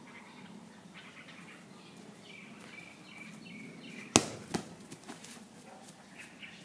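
A football kicked hard with a bare foot about four seconds in: one sharp thud, then a smaller knock about half a second later.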